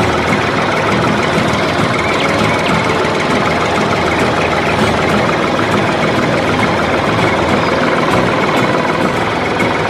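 Steady, loud mechanical running of a DIY mini tractor's drive, an even engine-like chugging.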